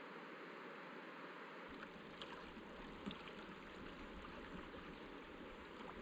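Shallow river water running steadily over rocky shoals, with a couple of faint knocks about two and three seconds in.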